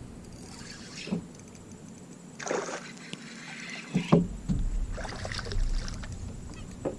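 Water splashing and sloshing at the side of a fishing boat in several short surges, with a few sharp knocks, and a low rumble coming in about four seconds in.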